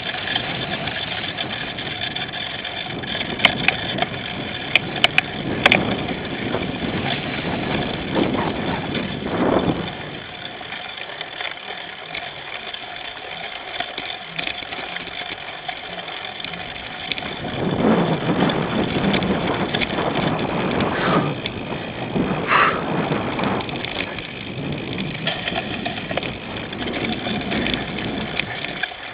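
Riding noise from a cyclocross bike picked up by a camera mounted on the bike or the rider's helmet: wind rushing over the microphone and tyre and frame rumble, swelling and easing, with a few sharp clicks and rattles a few seconds in.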